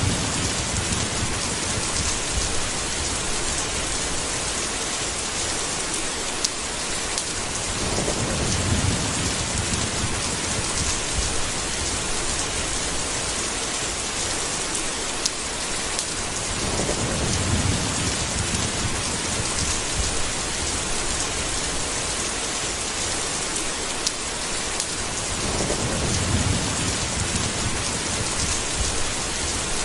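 Steady rain with low rumbles of thunder that swell and fade three times, about every eight or nine seconds.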